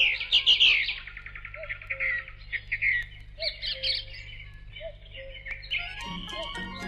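Recorded birdsong: many small birds chirping and twittering in quick falling trills. Music comes in near the end.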